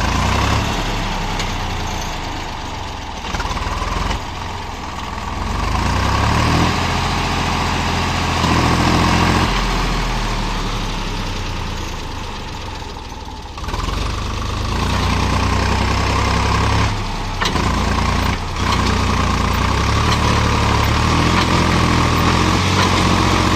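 Swaraj tractor's diesel engine running and revving up and down in long surges as the tractor strains, stuck in mud.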